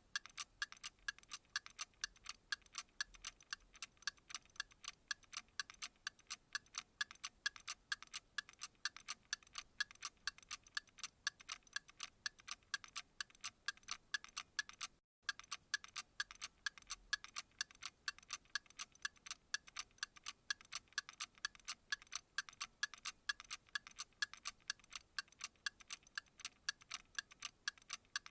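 A clock ticking in an even, rapid rhythm of sharp, light ticks. The sound cuts out for an instant about halfway through.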